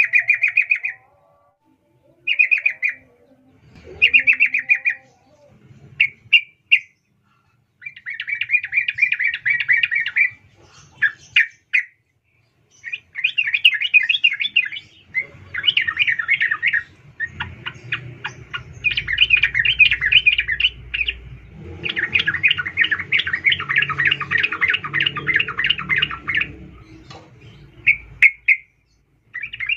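Female yellow-vented bulbul (trucukan) calling: repeated bursts of fast, chattering notes, some short and some running on for several seconds. A low rumble sits beneath the longer bursts in the middle stretch.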